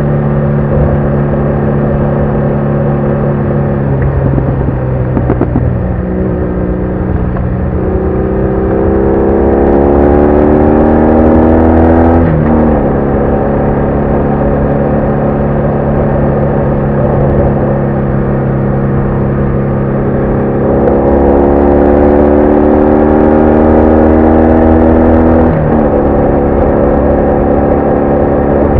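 BMW R1200R boxer-twin motorcycle engine under way: it holds steady, wavers briefly, then twice climbs in pitch under acceleration for about four seconds and drops sharply at an upshift, the second time near the end.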